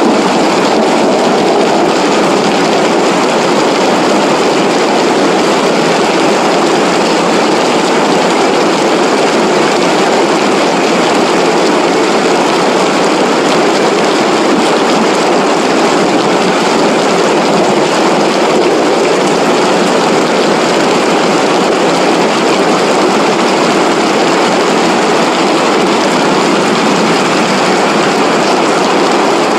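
Floodwater rushing steadily through a ravine after heavy rain.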